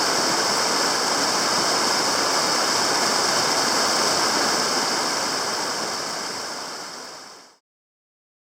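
Steady rush of a mountain stream's flowing water, fading out from about five seconds in and gone by about seven and a half seconds.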